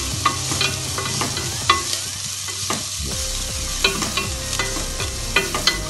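Grated coconut, shallots and raw mango sizzling steadily in hot oil in a kadai while a spatula stirs them, with irregular clicks and knocks of the spatula against the pan.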